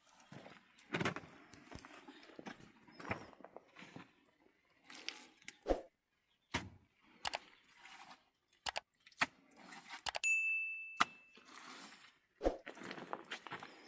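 Irregular knocks, thuds and scraping. About ten seconds in comes a single ringing metallic ding that lasts about a second.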